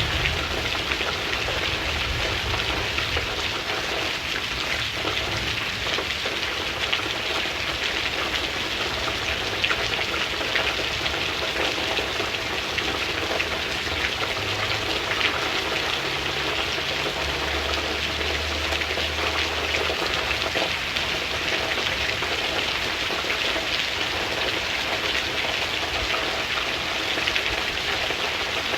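Steady rain falling, a dense even patter of drops, with the last of a thunder rumble fading out at the very start.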